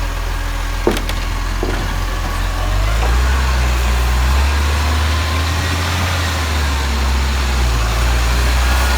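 Garbage truck engine idling, then running at higher revs from about three seconds in, with a sharp click about a second in.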